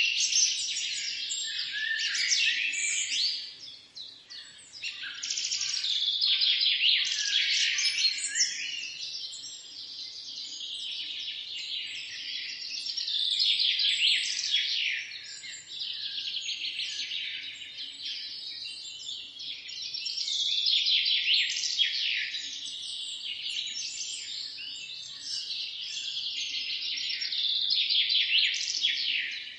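Several songbirds chirping and singing together in a dense, continuous morning chorus of high chirps and trills, swelling and easing in waves.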